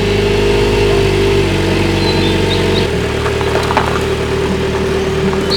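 A vehicle engine idling with a steady hum. The deepest part of the hum drops away about three seconds in.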